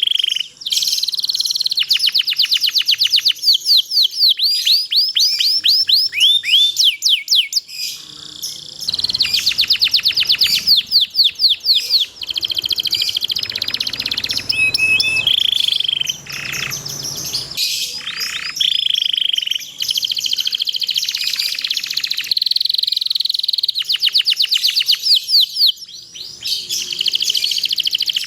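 Domestic canary in full song, singing long, continuous phrases of fast trills made of rapidly repeated sweeping notes, broken by a few short held whistled notes.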